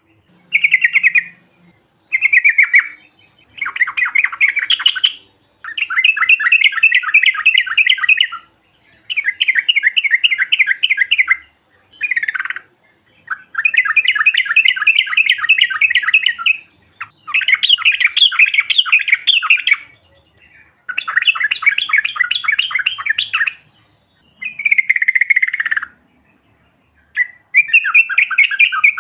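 Yellow-vented bulbul (trucuk) singing long, rapid rolling trills. The phrases last two to three seconds each and repeat with short pauses, about ten in all.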